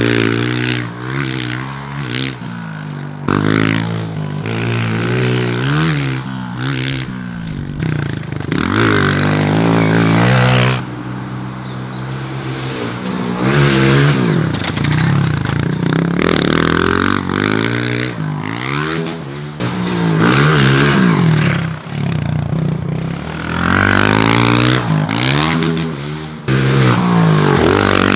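Honda CRF125 pit bike's four-stroke single-cylinder engine being ridden hard, its revs climbing and dropping again and again.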